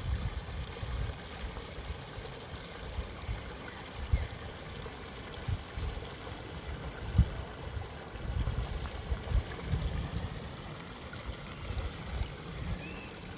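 Outdoor nature ambience of running water, with irregular low rumbling throughout and a faint bird chirp near the end.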